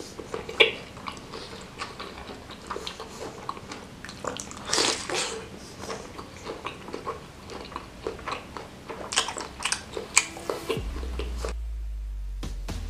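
Close-up chewing and biting of beef meatball (bakso) and noodles in spicy broth: many short, irregular mouth clicks and smacks. Near the end a steady deep bass note comes in as background music starts.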